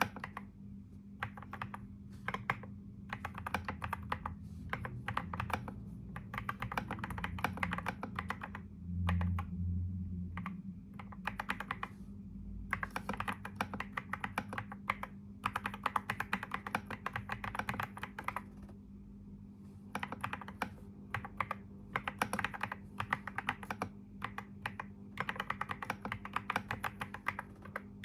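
Typing on a computer keyboard: quick runs of keystrokes in bursts separated by short pauses, over a faint steady hum. A brief low thump comes about nine seconds in.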